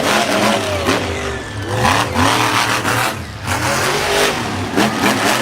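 Monster truck engine revving hard, its pitch swooping up and down again and again as the throttle is blipped.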